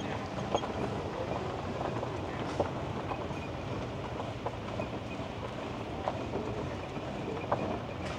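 Golf cart rolling along: a steady rumble with scattered rattles and clicks.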